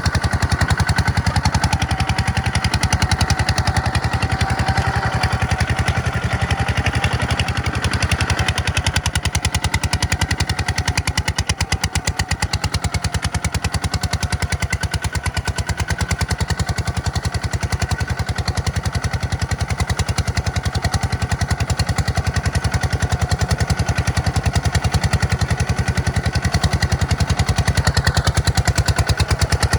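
Tractor engine running steadily under load, a fast, even knocking pulse throughout.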